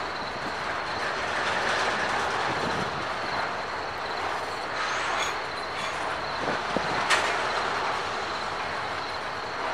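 Slow-moving BNSF freight train rolling past: a steady rumble and rattle of the cars on the rails, with one sharp click about seven seconds in.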